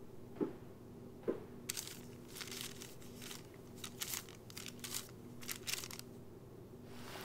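Two soft knocks, then a run of short, crisp paper rustles as the pages of a large book are leafed through, over a faint steady hum.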